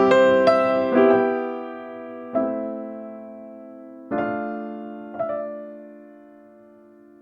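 Background piano music: slow, sparse chords struck about six times, each left to ring and fade, dying away near the end.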